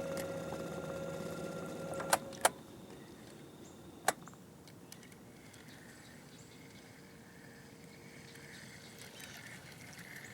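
Small electric motor humming steadily, then switched off about two seconds in, followed by three sharp clicks or knocks and quiet open-air background.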